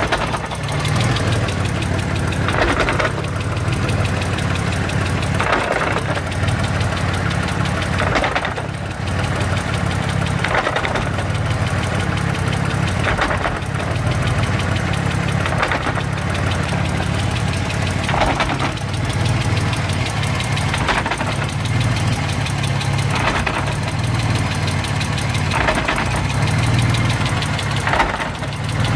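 Mitsubishi 3000GT VR-4's twin-turbo V6 running at idle, with a short, sharp clunk repeating about every two and a half seconds.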